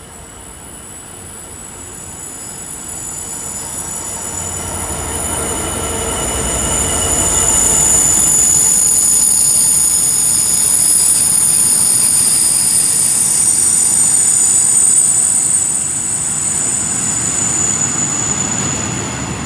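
DB Cargo Class 66 diesel locomotive 66009 passing with a heavy loaded freight train without stopping. The engine rumble builds as it draws level, then a long run of wagons follows with a steady high-pitched wheel squeal, the loudest part of the pass.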